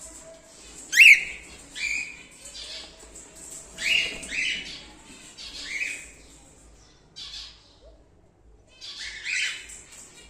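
Cockatiels calling: a string of short, harsh squawks about once a second. The loudest comes about a second in, and there is a brief lull near the end before two more calls.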